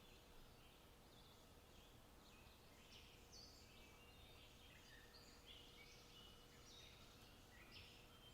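Faint birdsong: many short chirps and trills from small birds, overlapping throughout, over a low steady background hum.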